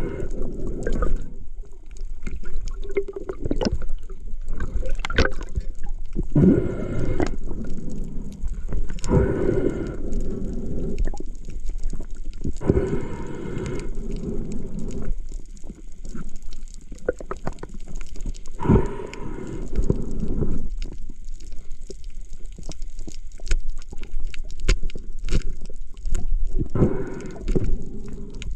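Water gurgling and sloshing around the camera while spearfishing, with a louder surge of bubbling every few seconds over a steady rumble.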